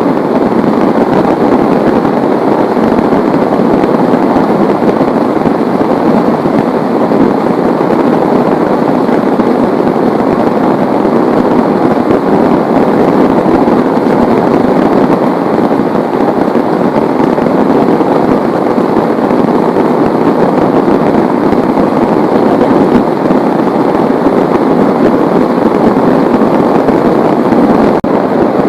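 Heavy rain falling in a steady, loud downpour, a dense unbroken patter of drops.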